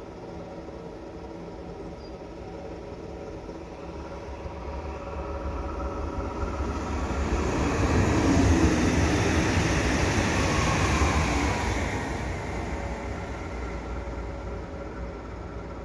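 Electric passenger train passing through a station. Its running noise swells over several seconds, is loudest a little past halfway, then fades as it pulls away.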